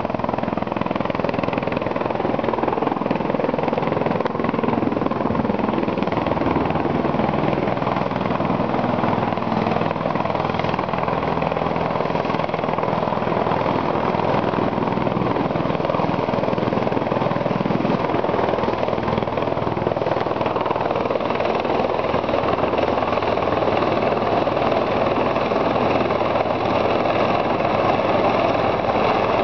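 Helicopter running with a steady, unchanging engine and rotor noise.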